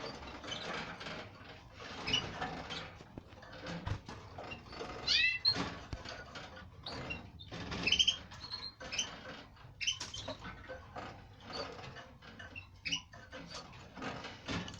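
Canaries chirping: many short, scattered high calls with a few quick rising glides, and small clicks and rustles between them.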